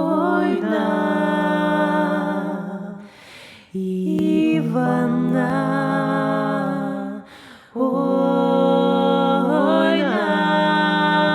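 Three-part a cappella voices of a Ukrainian Kupala folk-song arrangement humming long held chords without words, in three phrases with short breaths between them, about three and seven seconds in.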